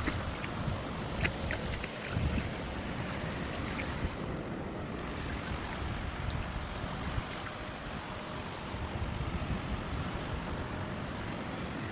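Wind rumbling on the microphone over a steady wash of sea noise, with a few sharp clicks in the first two seconds.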